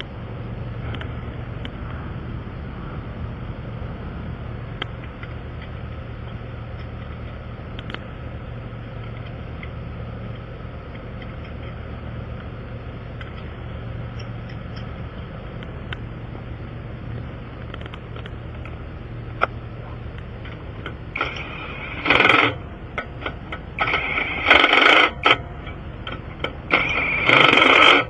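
A steady low engine idle hum, then, over the last several seconds, a few loud short bursts of an impact wrench running a 21 mm lug-nut socket.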